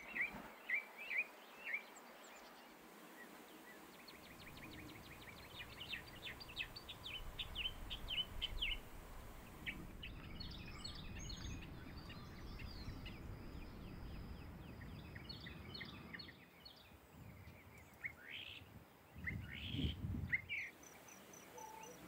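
Small wild birds chirping, in short quick runs of high calls, over a low steady outdoor rumble; the calls grow louder briefly near the end.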